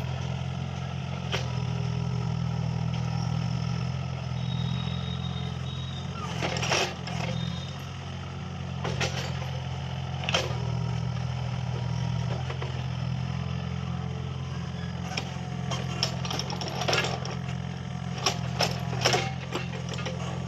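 Mini excavator's diesel engine running steadily while it digs, with sharp knocks and clanks over it, more often in the last few seconds.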